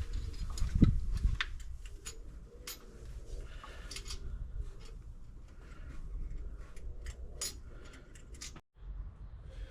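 Scattered light metallic clicks and clinks of hand tools working the distributor hold-down clamp and bolt on a small-block Chevy engine, with a dull knock about a second in.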